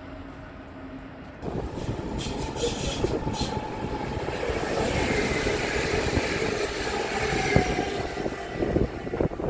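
Go-Ahead electric multiple unit passing close by: a faint steady hum, then about a second and a half in a sudden rise to loud, continuous wheel-on-rail rumble with clacks over the rail joints and a falling whine partway through.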